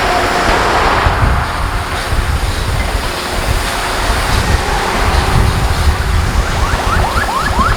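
Busy road traffic rumbling steadily, with wind buffeting the microphone. About six and a half seconds in, a rapid series of short rising electronic chirps starts, about four a second.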